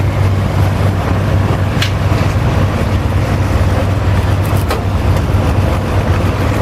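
International Harvester 966 pulling tractor's engine running steadily with a low, even hum, with two short sharp clicks in the middle.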